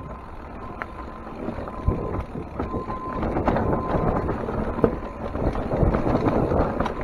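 Wind rushing over the microphone during a fast descent, with frequent knocks and rattles from the bike bouncing over a rough trail.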